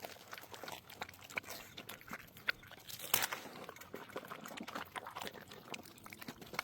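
An animal biting into and chewing juicy watermelon: irregular wet crunches and clicks, the loudest bite about three seconds in.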